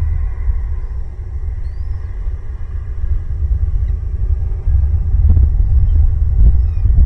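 Loud, steady low rumble throughout, a little stronger after about five seconds, with a faint short rising bird call about two seconds in.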